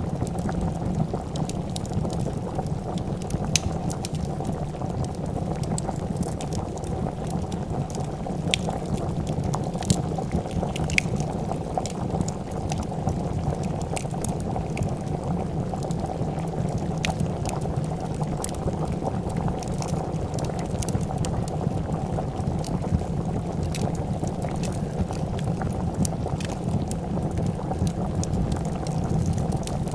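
A pot of soup boiling with steady dense bubbling, over scattered sharp crackles and pops from a wood fire.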